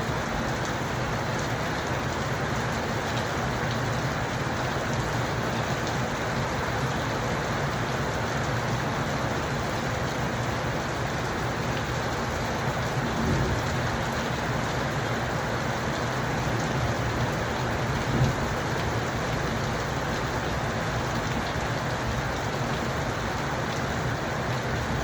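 Steady rain falling and spattering on surfaces, an even dense hiss. There is a short louder swell about halfway through and a single sharper knock a few seconds later.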